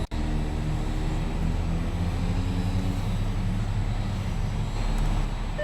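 Audi S4's 3.0-litre supercharged V6 idling steadily, a low even hum heard from inside the cabin.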